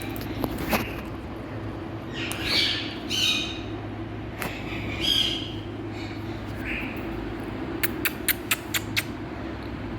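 Indian ringneck parrot giving short harsh squawking calls a second or two apart, then near the end a quick run of six sharp clicks, over a steady low hum.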